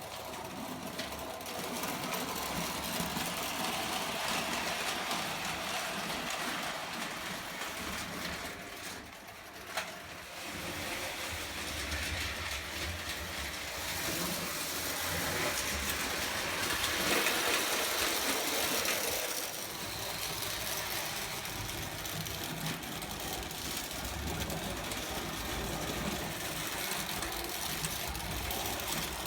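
Prewar Lionel O gauge toy train running on tinplate track: the locomotive's electric motor whirring and the wheels rattling over the rails, steady apart from a short dip about ten seconds in.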